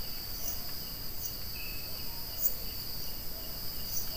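Night insects, crickets among them, keep up a steady high trill with short chirps repeating over it. Now and then a dog barks faintly far off.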